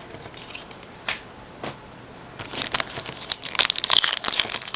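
A trading card pack wrapper being handled and opened: a couple of soft clicks, then dense crinkling from about two and a half seconds in.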